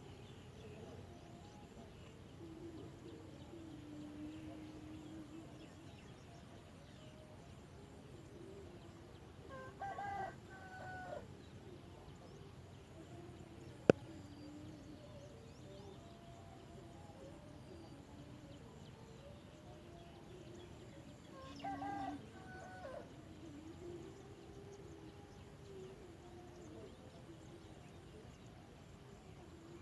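A rooster crowing twice, about twelve seconds apart, over faint bird calls throughout. A single sharp click falls between the two crows.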